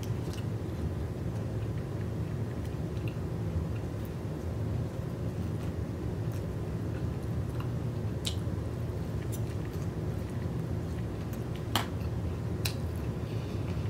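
Close-miked chewing and wet mouth sounds of someone eating oysters, with scattered sharp clicks and smacks over a steady low hum.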